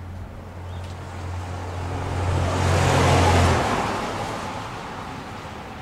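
A motor vehicle passing by: its noise swells to a peak about three seconds in and then fades. Under it a steady low hum runs and cuts off about halfway through.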